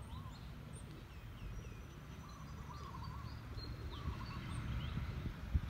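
Birds calling, one repeating a short warbled phrase three or four times, with higher chirps and whistles scattered among them, over a steady low rumble.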